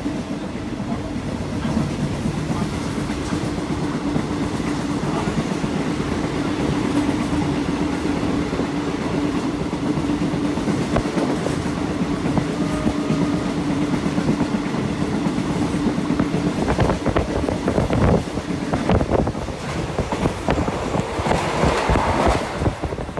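Passenger train running, heard from inside the carriage: a steady rumbling drone with the wheels clacking over rail joints. About seventeen seconds in the drone falls away and the clacks grow sharper and closer together.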